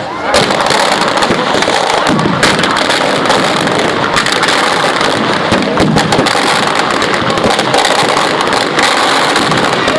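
Fireworks and firecrackers going off in a dense, continuous string of crackles and pops, the bangs overlapping with no pause.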